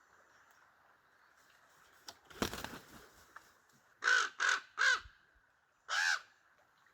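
Common raven calling: three harsh caws in quick succession, then a fourth a second later. A brief rustling noise comes a little before the calls.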